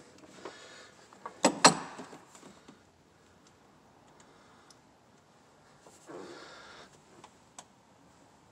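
Hand tools being handled during spark plug work: two sharp knocks about a second and a half in, then scattered light clicks and a brief scrape about six seconds in.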